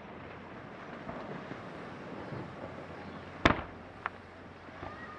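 Aerial firework shell bursting: one loud boom about three and a half seconds in with a short echoing tail, then a sharper, smaller crack half a second later.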